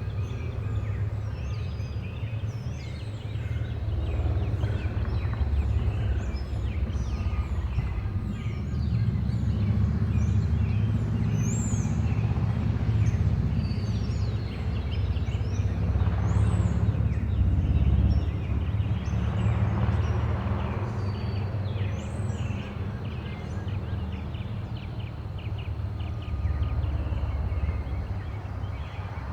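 Backyard songbirds chirping and calling, with many quick chirps and a high whistled note repeated every couple of seconds, over a steady low rumble.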